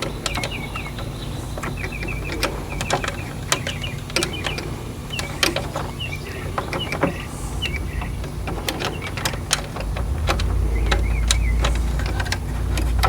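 Small metal generator parts and a bolt clinking and tapping as they are handled and fitted together by hand, in scattered sharp clicks. A low rumble swells from about ten seconds in.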